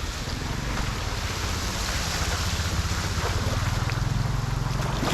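Rushing floodwater with a low engine hum that grows louder near the end.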